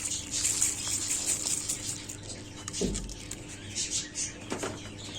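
Cleaned seed grains being poured into a bowl of water: a dense patter of small ticks and splashes. Two short bird chirps come through near the middle and later on.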